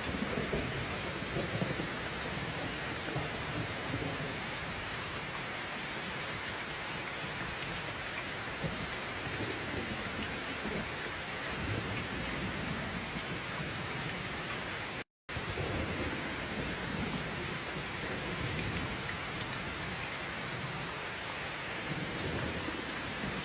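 Steady heavy rain falling, with low rolls of thunder swelling and fading several times. The sound cuts out completely for a split second about fifteen seconds in.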